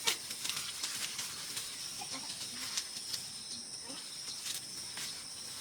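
Insects trilling in a steady, high-pitched drone, with a second, lower trill joining about halfway; scattered light clicks and rustles over it.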